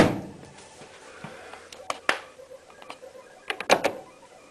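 Sharp mechanical clicks and knocks of hands working on a washing machine: a knock at the start that dies away, a few single clicks about two seconds in, and a quick run of knocks near the end.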